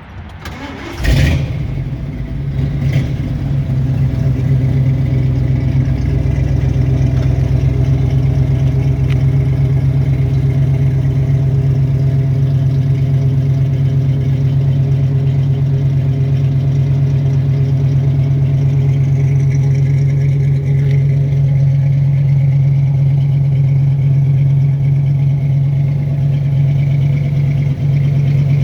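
Ford 302 V8 in a 1973 Ford Bronco starting about a second in, then idling steadily.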